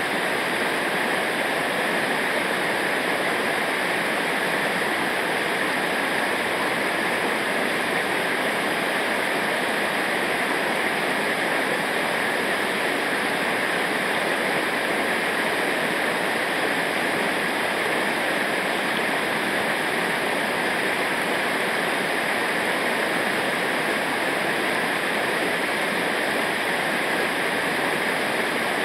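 Rushing river water, a steady, unbroken wash of noise from rapids or falling water.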